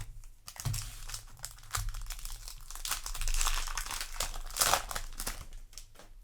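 Foil booster-pack wrapper crinkling as it is handled, an irregular crackle that is busiest in the second half.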